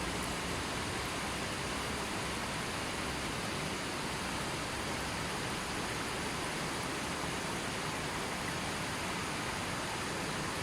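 River water flowing gently: a steady, even rush of water with no change.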